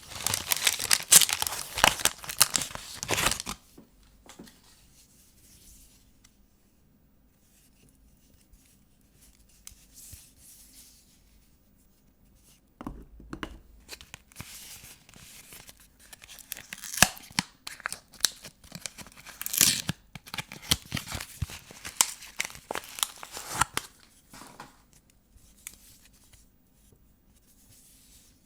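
Paper soap wrapping being torn open and crumpled by hand to unwrap vintage soap bars. Crackly tearing for the first few seconds, a lull of about nine seconds with only faint rustles, then about twelve more seconds of tearing and crinkling with sharp crackles.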